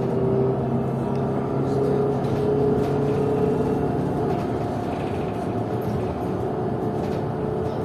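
PKTS-6281.01 "Admiral" trolleybus under way: a steady mix of road noise and the whine of its DTA-3U1 AC traction motor and IGBT inverter, the whine rising a little in pitch over the first few seconds as it picks up speed.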